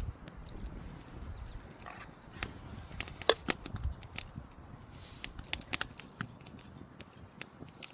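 Wood campfire crackling, with irregular sharp snaps and pops and one louder pop a little past three seconds in. A few soft low thumps sit under it near the start and just before four seconds.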